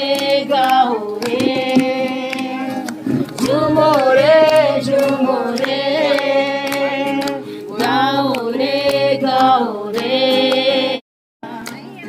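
Music with singing: several voices hold long, wavering notes of a melody. The sound cuts out briefly near the end, then the music returns quieter.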